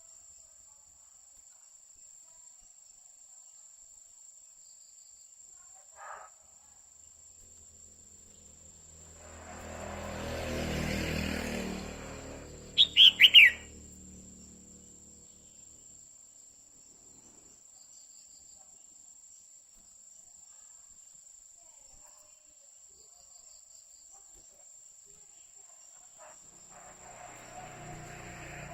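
Female red-whiskered bulbul giving one short, loud burst of quick, downward-sliding calls about halfway through. Before it, a rush of noise swells and fades over a few seconds, and a faint steady high tone runs underneath.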